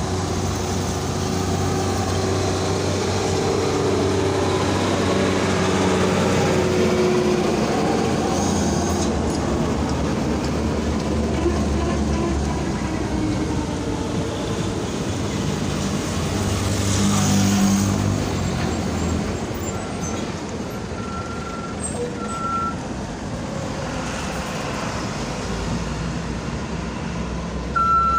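Hino dump trucks' diesel engines running while the trucks manoeuvre, with a brief hiss partway through. Short repeated reversing beeps start in the last third.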